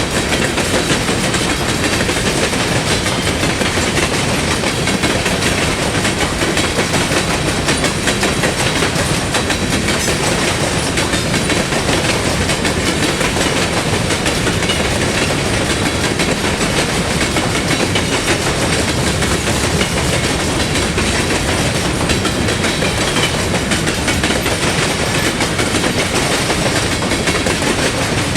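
Train cars rolling steadily through a railroad grade crossing: a constant rumble with the wheels clacking over the rail joints.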